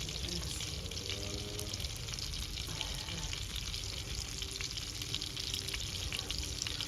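Steady dense crackling and sizzling from a wood cooking fire, with many small irregular pops.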